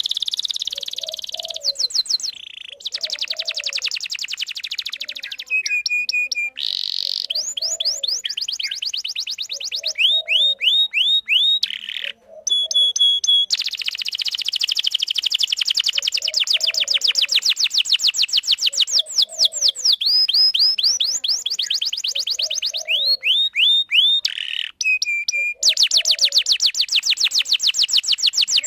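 Canary singing a long song of rapid trills and rolling phrases, high and whistled, broken by short pauses and a few slower chirped notes between runs.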